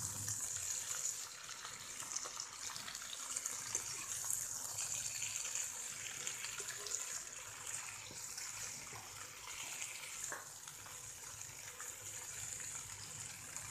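Chopped eggplant, onion and tomato sizzling in hot mustard oil in a nonstick frying pan, a steady hiss, while a spatula stirs them with small scrapes and taps against the pan.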